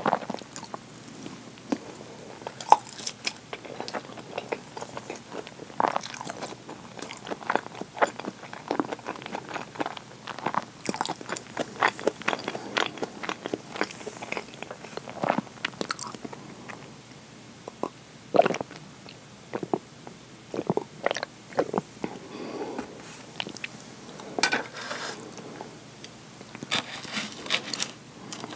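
Close-up chewing of crispy fried chicken: irregular crunches and crackles with wet mouth sounds, thick in the first half, sparser in the middle and bunching again near the end.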